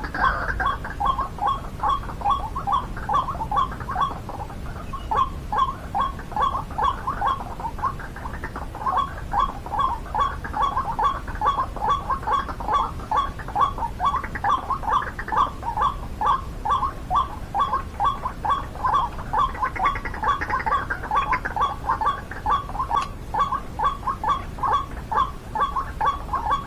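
White-breasted waterhen calling: a long run of quick repeated notes, about three a second.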